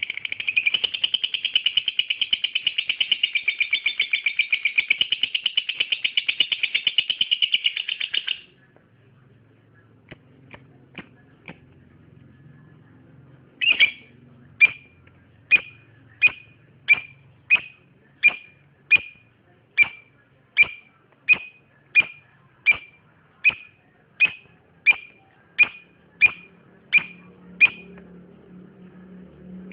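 Lovebird calling: a long, rapid, unbroken chattering trill that cuts off about eight seconds in. After a short pause come a few faint chirps, then a steady series of about twenty single sharp chirps, roughly one every 0.7 seconds.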